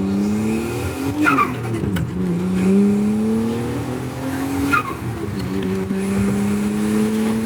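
Turbocharged Nissan Skyline R33 inline-six pulling under load, its note slowly rising, then dropping suddenly at two gear changes, about a second in and near the five-second mark. Each time the throttle closes there is a short falling chirp of turbo flutter ("stututu"), with the engine sounding freshly sorted after a blown-off turbo coupler was refitted.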